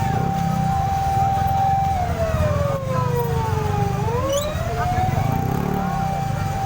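Emergency vehicle siren wailing over a steady low rumble. Its tone holds for about two seconds, falls slowly for two more, then rises again about four seconds in.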